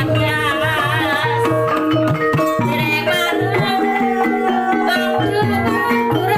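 Javanese traditional music for a kuda lumping dance: hand drums play under steady ringing tones and a wavering melody with vibrato.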